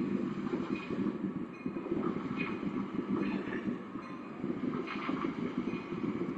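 Freight train's cars rolling across a steel railroad lift bridge: a steady rumble with scattered metallic clicks and brief squeals from the wheels.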